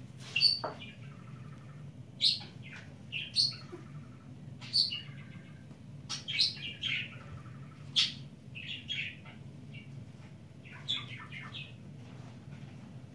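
A small bird chirping in short, sharp high calls every second or two, over a steady low hum.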